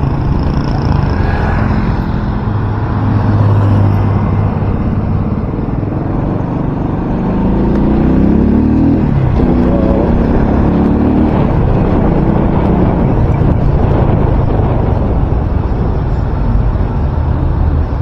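Loud wind noise rushing over a microphone that is wrapped in electrical tape, the tape not stopping it, over a vehicle engine whose pitch steps up and down.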